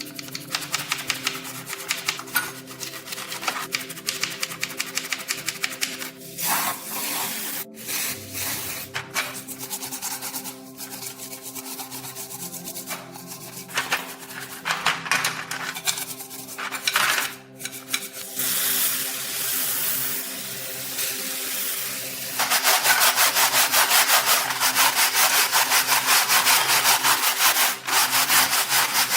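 Hand sanding or filing in quick back-and-forth strokes, an abrasive rubbing against the workpiece. It becomes louder and busier about three-quarters of the way through.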